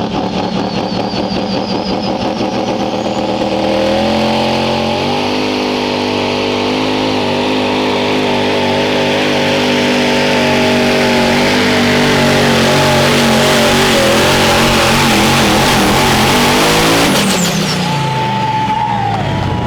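Pulling vehicle's engine under full load on a pull run: the revs climb about four seconds in and hold high and steady, then the engine winds down with falling pitch from about seventeen seconds as the run ends.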